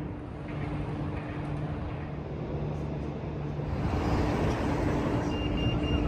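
A vehicle running with a steady low hum over a rumble, growing louder about four seconds in as it comes closer; a faint high whine joins near the end.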